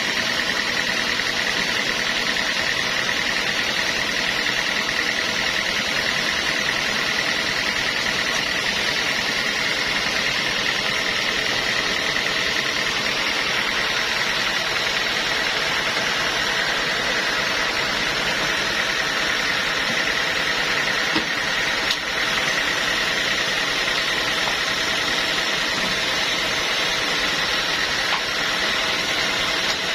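Sawmill machinery running steadily: a constant mechanical noise with a high whine, and a couple of small ticks about two-thirds of the way in.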